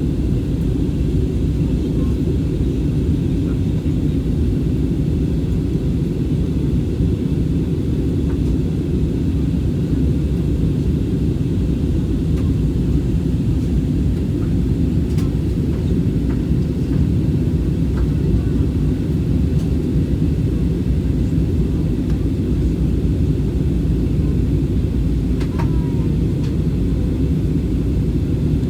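Steady low rumble inside a jet airliner's cabin in flight, the noise of engines and airflow, with a few faint clicks.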